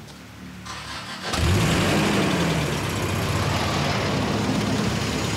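UAZ off-road police vehicle's engine coming in suddenly about a second in, rising in pitch as it revs, then running steadily as the vehicle drives off.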